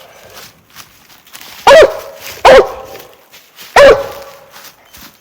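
Treeing walker coonhound barking three loud times, about a second apart, her tree bark at a raccoon she has treed.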